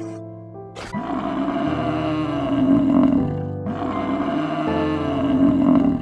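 A big cat roaring in two long, rough calls, the second starting just after the first breaks off about halfway through, over background music.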